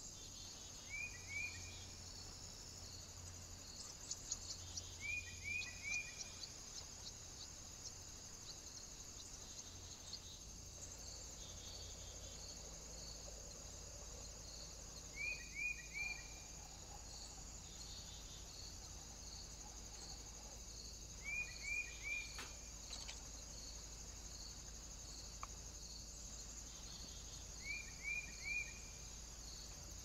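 Faint woodland sounds sped up to double speed. A bird gives a short call of three quick falling chirps five times, over a steady high insect-like hiss with a faint regular pulse.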